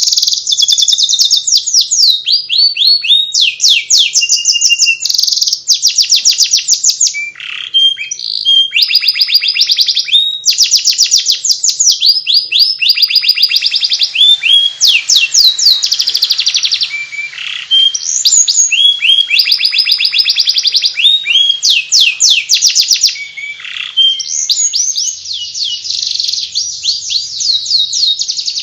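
Domestic canary singing in 'ngeriwik' style: long runs of fast, repeated twittering chirps, broken by short pauses between phrases.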